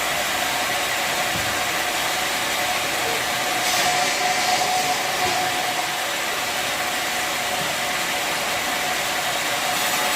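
Bandsaw sawmill machinery running with a steady hum and a constant mid-pitched tone, a louder hiss rising briefly about four seconds in.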